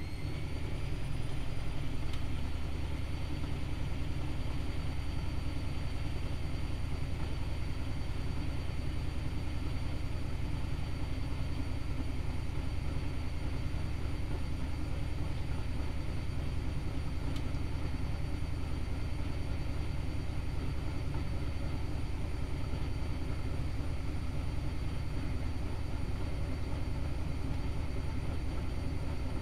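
Privileg Multispar 5110 washing machine spinning: the drum motor finishes speeding up about a second in, then holds a steady speed with a high whine over a low drum rumble.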